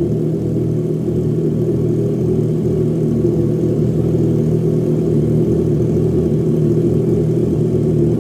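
Triumph Trident 660's three-cylinder engine idling steadily through a full aftermarket exhaust with a loop and a short side-exit muffler, warming up after being started.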